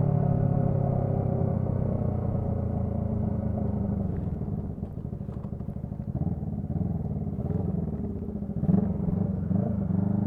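Motorcycle engine and exhaust, with the revs falling steadily over the first four seconds as the bike slows, then running lower and quieter, with an uneven low beat, for the rest.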